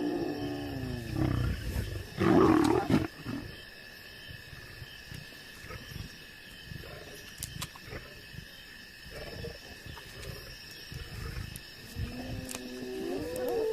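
Lions growling and snarling over a kill, loudest in a harsh outburst about two seconds in, with quieter rumbles after. Spotted hyenas' rising and falling whooping wails come at the start and again near the end.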